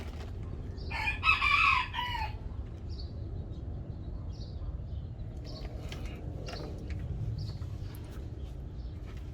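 A rooster crowing once, about a second in, followed by a few faint short high chirps.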